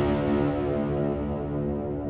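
Sustained low chord of many steady tones, its brighter upper part slowly fading away.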